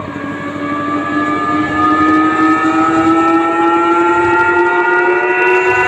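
A large horeg sound system plays a loud siren-like tone that climbs slowly and steadily in pitch. It swells over the first couple of seconds, with a few deep bass thumps underneath.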